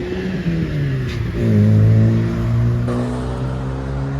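A passing car's engine accelerating, its pitch rising over the first second or so, then holding steady as it runs past at its loudest.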